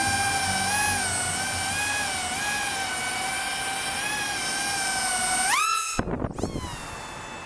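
Whine of a 3.5-inch FPV quadcopter's FPVcycle 16mm brushless motors and propellers in flight, its pitch wavering up and down with the throttle. Near the end the pitch climbs sharply, then the sound cuts down abruptly and winds down in falling sweeps.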